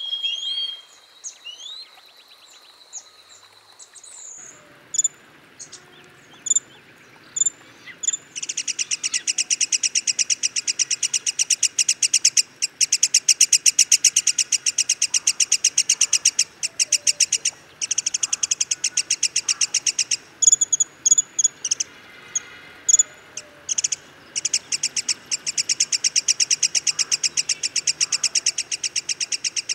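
Black-headed sibia calling: long runs of fast, evenly repeated sharp notes, each run lasting several seconds, with scattered single short high notes before and between them.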